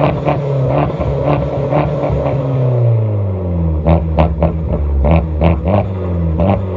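Fiat 500 Abarth's 1.4-litre turbocharged four-cylinder through its stock exhaust, revs dropping off over the first three seconds, then holding lower, with repeated sharp exhaust pops all the way through: backfire crackle on lift-off.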